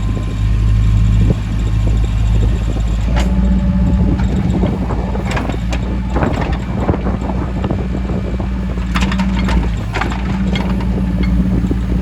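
Diesel engine of a 2005 Case 410 skid steer loader running steadily, its pitch shifting a little under load, with several sharp metallic clanks from the machine, the clearest about three seconds in and again near the nine-second mark.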